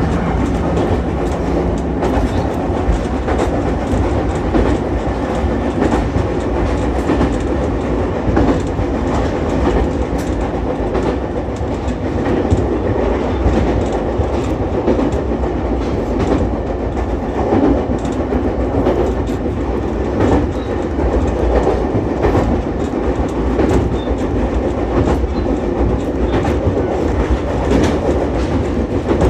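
Ichibata Electric Railway 7000-series electric railcar running along the line: a steady rumble of wheels on rail with frequent clicks from rail joints.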